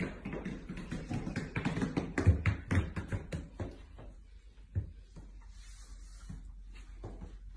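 Booted paws of husky-type dogs stepping on a hard floor and stairs: rapid, uneven tapping and thudding footfalls, dense for the first four seconds, then fewer and fainter.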